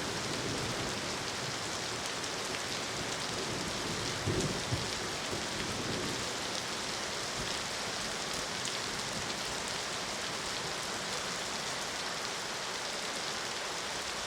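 Steady, heavy rain falling, with a brief low rumble of distant thunder about four seconds in.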